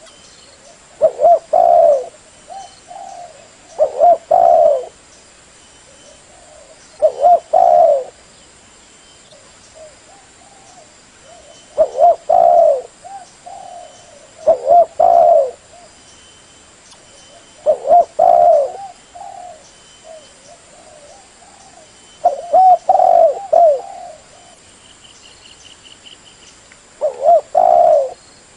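Spotted dove (tekukur) cooing: short phrases of several low coos, each about a second long, repeated every three to five seconds, with softer coos in between.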